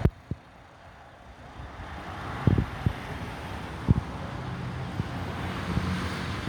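Airbus A330-300 airliner on final approach, its engine noise slowly growing louder as it comes closer. The wind knocks on the microphone a few times with dull thumps, the loudest near the start and about halfway.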